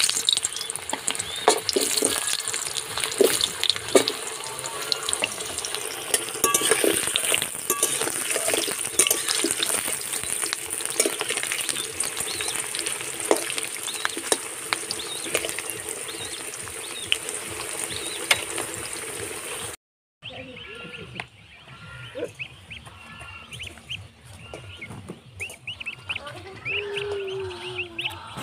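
Potato pieces frying in hot mustard oil in a wok: a steady sizzle with a metal spatula scraping and clinking against the pan. The sizzle cuts off abruptly about 20 seconds in, and goslings peep softly for the last several seconds.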